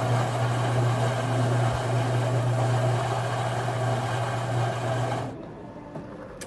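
A motor-driven appliance running steadily, a low hum under a loud whirring hiss, then cutting off abruptly about five seconds in.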